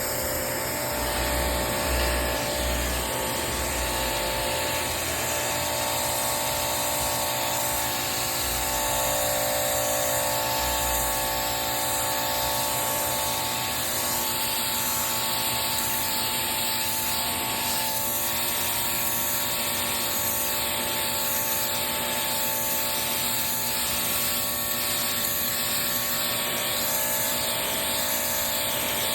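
Pressure washer running steadily, its water spray hissing against the pavement with a constant machine drone underneath.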